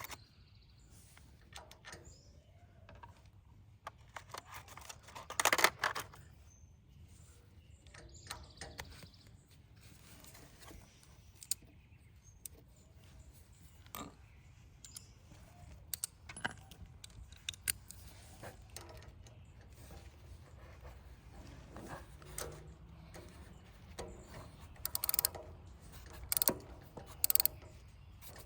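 Scattered metallic clicks and clinks of hand tools and small metal parts being worked on a generator during a carburetor replacement, with a cluster of louder clatters about five seconds in and a run of sharper clicks near the end.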